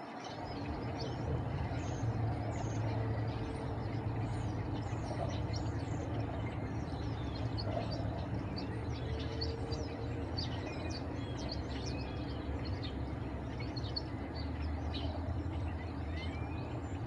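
Steady low vehicle rumble with many small birds chirping throughout.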